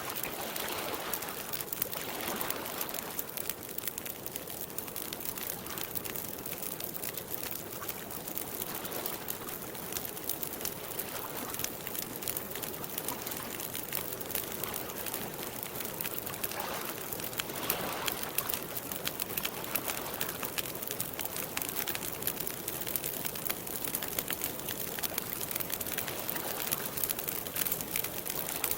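Campfire crackling with a steady stream of small pops, over a soft, continuous wash of lake water.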